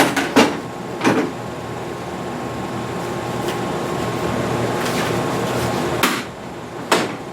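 Cessna U-3B's air-driven landing gear system: sharp clunks with a steady rush of air between them, which drops away after a clunk about six seconds in, followed by one more clunk near the end.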